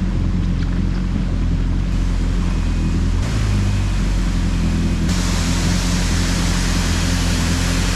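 Jet ski engine running steadily under way, with the rush of water along the hull. The hiss of water grows louder about five seconds in.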